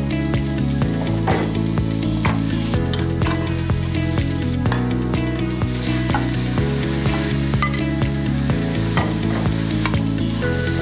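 Food sizzling in a frying pan as it is stirred, with a few short knocks of the utensil, over background music with steady chord changes.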